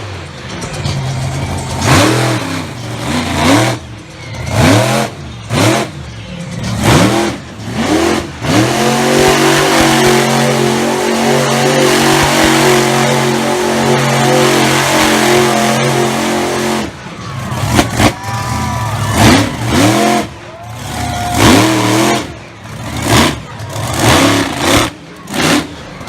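Monster truck engine revving in quick repeated rising-and-falling blips, then held at a steady high note for about eight seconds in the middle, then blipping again.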